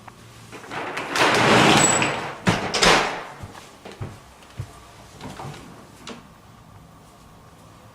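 A sliding door run along its track for about two seconds, followed by a few knocks and clicks as it is stopped and handled.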